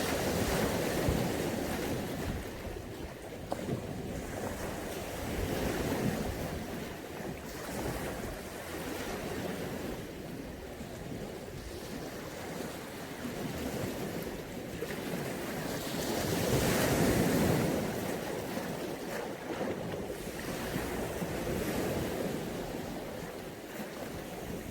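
Mediterranean sea waves breaking and washing on the shore. Each swell rises and fades over a few seconds, and the biggest comes about two-thirds of the way through.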